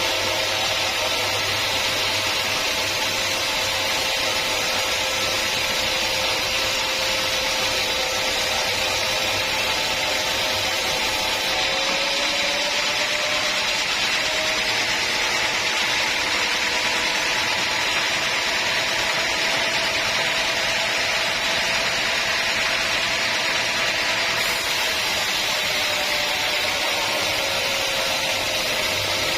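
Sawmill saw cutting through a teak log: a steady cutting hiss over a running whine that rises slightly in pitch about twelve seconds in and drops back near the end.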